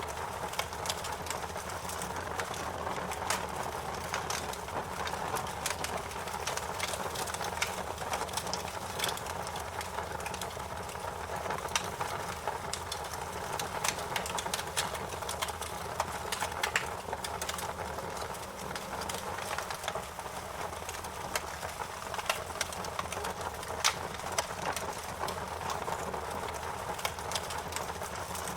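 Wood fire crackling steadily, with frequent small snaps and a few louder pops of burning wood.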